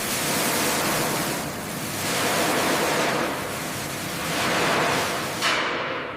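A loud rushing noise that starts abruptly, then swells and eases about every two seconds, with a sharper surge near the end before it fades.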